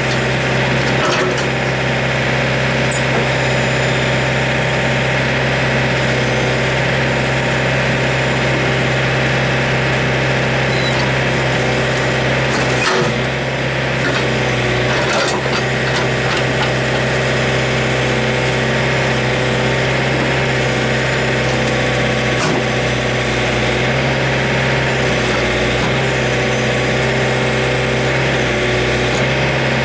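John Deere 110 backhoe loader's diesel engine running steadily at high throttle while its hydraulics press the bucket down hard on a pressurised tire to crush it off the rim.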